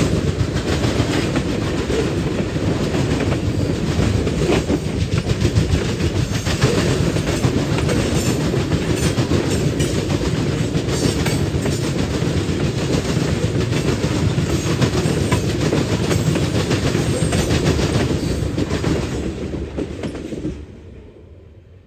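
Freight cars of a CSX manifest train, mostly tank cars, rolling past at close range, their steel wheels clattering and clicking over the rail joints. The noise falls away sharply about twenty seconds in as the last car passes.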